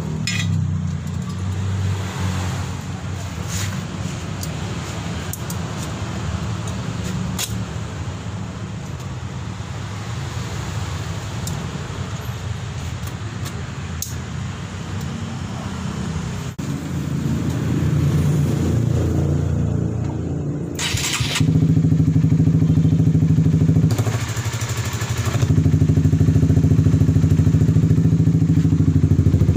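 Honda CB150R's single-cylinder engine running through an aftermarket SKR racing exhaust. It holds a steady idle, then gets louder about two-thirds of the way through and again near the end, with a brief drop between. A few light clicks are heard in the first half.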